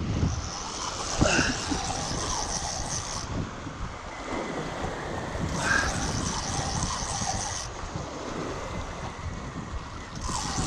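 Wind blowing on the microphone over water at the shore, with stretches of stronger hiss coming and going.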